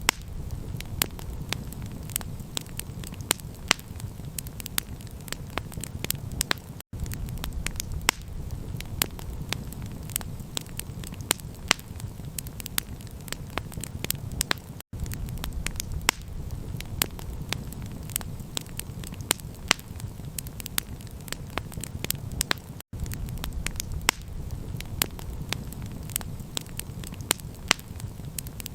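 Campfire crackling: frequent sharp pops and snaps over a steady low rumble, cutting out for an instant about every eight seconds.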